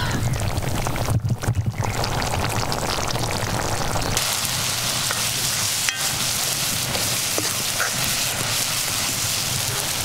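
Snail masala sizzling in an iron kadai over a wood fire. About four seconds in the sound changes abruptly to a brighter, steadier sizzle, and a metal ladle clicks once against the pan a couple of seconds later.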